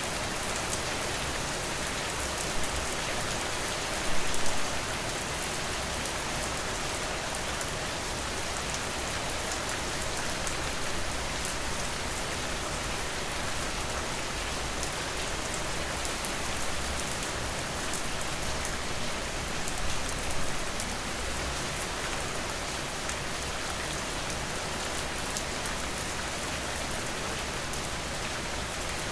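Steady rain: an even hiss of rainfall with many small sharp drop ticks. It swells louder briefly about four seconds in and again around twenty seconds.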